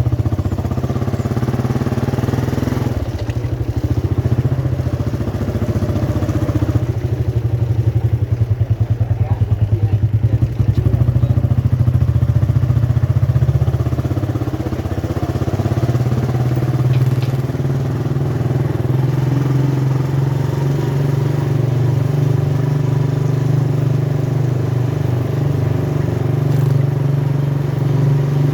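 Motorcycle engine running steadily, its even firing pulses continuing throughout, slightly quieter in the second half.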